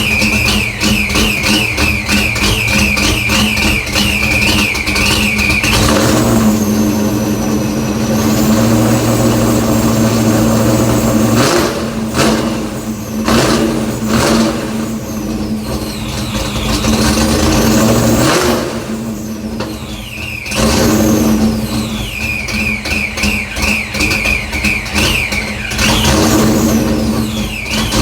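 Fox-body Ford Mustang exhaust through Black Widow 250 mufflers and three-inch piping, idling and revved several times in the middle, with a wavering high whine over the idle near the start and again near the end.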